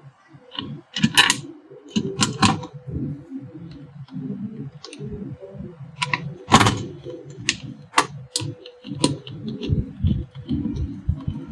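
Irregular clicks and knocks of an electric iron's parts being handled and pressed together during reassembly, with a few sharper taps standing out among the softer handling sounds.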